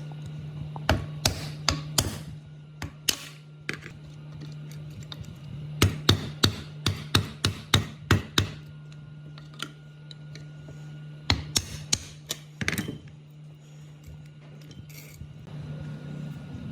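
Sharp metallic knocks and taps of hand tools on rusty water-pump parts, coming in irregular clusters, at times about three a second. A steady low hum runs underneath.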